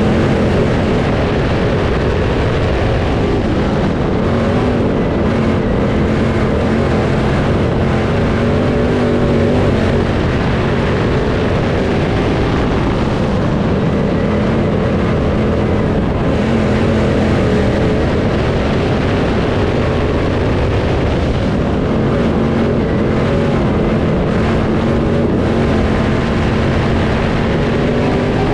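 Crate late model dirt race car's V8 engine running hard at racing speed, its pitch rising and falling slightly as it works around the track.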